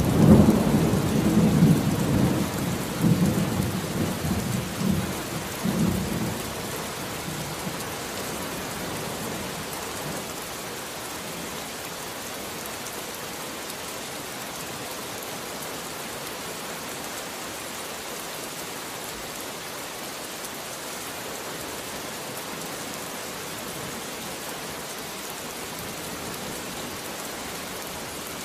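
A roll of thunder rumbling and fading away over the first several seconds, leaving steady rain falling.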